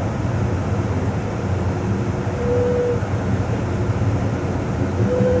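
Steady rumble of an Amtrak Coast Starlight passenger train running along the rails, with short faint squeals about two and a half seconds in and again near the end.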